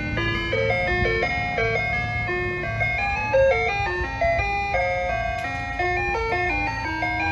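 Soft-serve ice cream truck's chime box playing a looping electronic jingle melody, note by note, over a steady low hum from the truck.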